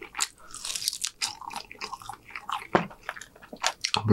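Close-up crunching and chewing of crispy breaded fried chicken: a bite with a dense crunch about half a second in, followed by a string of crackly chews.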